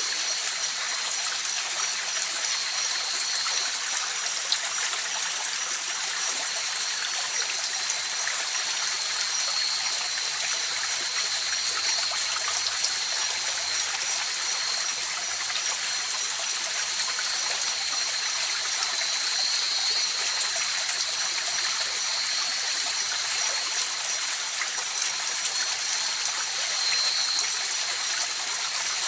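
A river flowing steadily, a constant rushing hiss of running water, with a steady high-pitched trill of night insects over it.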